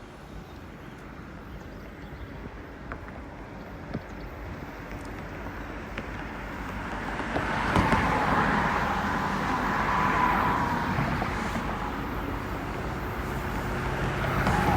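Freight train approaching, led by Union Pacific EMD SD70M 4114 and two Norfolk Southern GE C40-9W diesel locomotives: a rumble that grows steadily louder over the first half and stays loud. A high steady tone comes in about halfway through.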